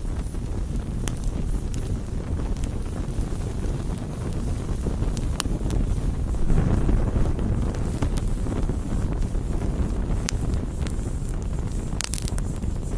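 Wood campfire burning: a steady low rumble of flame, and perhaps wind, with scattered sharp crackles and pops from the wood. The rumble swells for a moment about halfway through.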